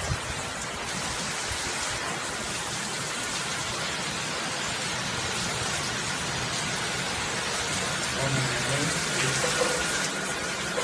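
Torrential hurricane rain pouring down in a steady hiss.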